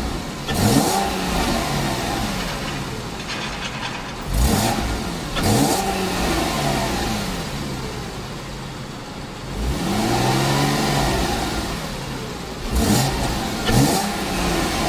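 Porsche Cayman R's 3.4-litre flat-six revved in Sport mode, with the exhaust opened up: about six blips that rise and fall back, one held longer at high revs about two-thirds of the way through, settling back to idle between.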